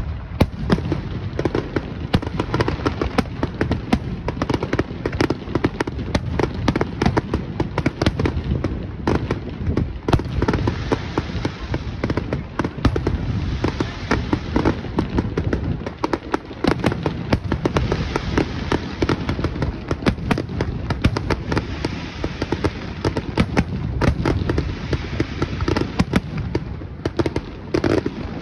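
Aerial fireworks display going off in a dense barrage: a rapid run of bangs, many each second, without a break.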